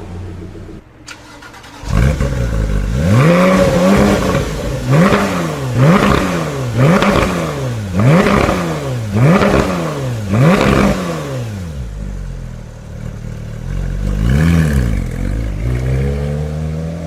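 A high-performance car engine fires up, then is revved in quick blips, about eight at roughly one a second, each rising and falling in pitch. It settles to a lower idle, gets one more blip, and its pitch begins rising near the end as it pulls away.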